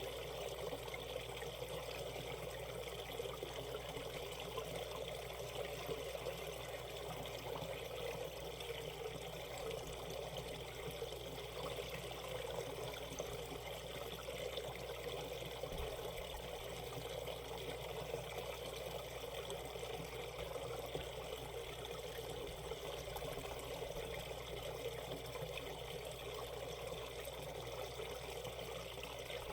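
Shallow valley stream flowing and trickling over rocks, a steady, even rush of water.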